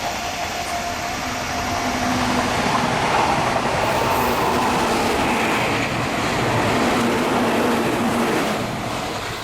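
Meitetsu electric train passing through a station at speed without stopping. The rushing wheel and rail noise builds over the first two seconds, stays loud, and fades near the end.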